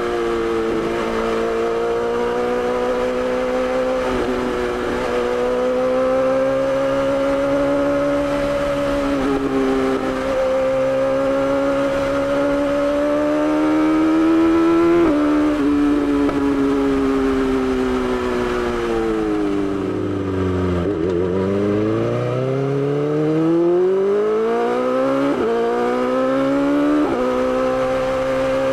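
BMW S1000XR's inline-four engine under way, its pitch rising and falling with throttle and gear changes. About two-thirds of the way through it slows to low revs, then accelerates again through several quick upshifts.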